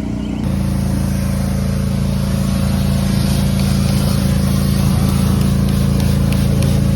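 An engine running steadily at constant speed, with an abrupt change in its tone about half a second in.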